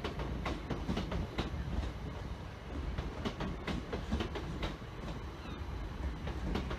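A train rolling along the track, its wheels clicking irregularly over rail joints and points above a steady low rumble, with a few faint high wheel squeaks near the end.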